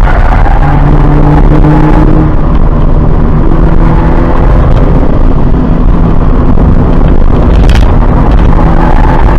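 2017 Subaru BRZ's 2.0-litre flat-four boxer engine running hard through a corner on track, mixed with tyre and wind noise. Heard from inside the cabin as a loud, steady low rumble.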